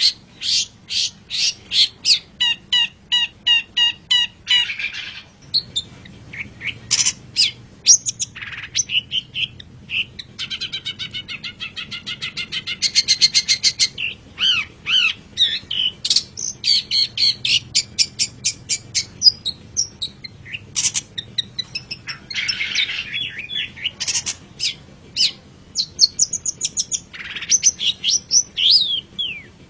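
Long-tailed shrike (cendet) singing a long, varied song: runs of quickly repeated sharp notes, harsh rasping bursts now and then, and a fast trill about halfway through.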